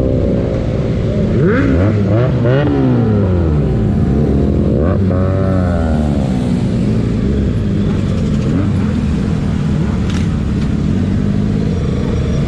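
Several superbike engines revving, their pitch rising and falling as they rev and pass close by about two seconds in and again about five seconds in, over a steady engine drone.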